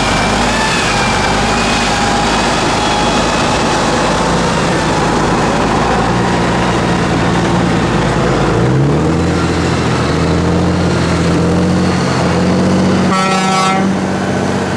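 Tatra 8x8 trial truck's turbo diesel engine running, revving up about two-thirds of the way through and holding the higher revs, with a short horn toot near the end.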